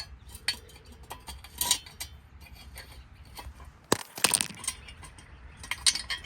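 Metal clinks and light knocks of a steel pin-type jack stand being set to height, with one sharper clank about four seconds in.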